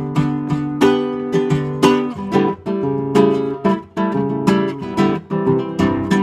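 Acoustic guitar strummed and picked in an instrumental passage of a song, chords changing every second or so.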